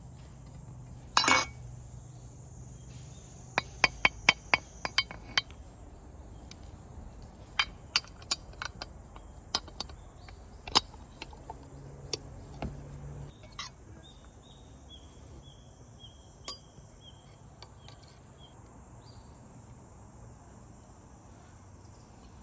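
Hard objects clinking and tapping, like cookware or utensils being handled. There is a short scrape-like burst about a second in, then a dozen or so sharp irregular clicks over the next ten seconds, with a faint run of high chirps and a steady high hiss behind.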